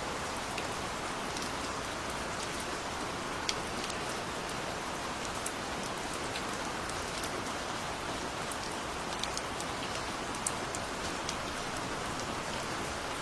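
Steady gentle rain: a dense even hiss of falling rain with scattered individual drops ticking on a surface.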